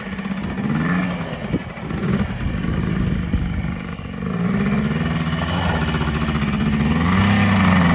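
ATV engine running and being revved, its pitch rising and falling several times and getting louder toward the end.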